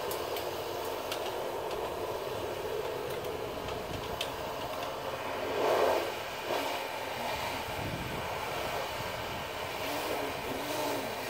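A steady mechanical rushing noise, with a louder swell about six seconds in and a few faint clicks.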